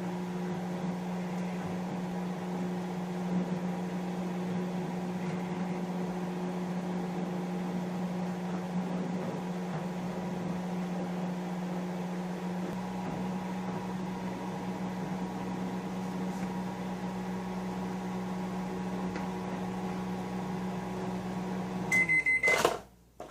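Microwave oven running with a steady hum while it heats a bowl of noodles in water. Near the end it gives a short high beep as the cooking time runs out, and the hum stops.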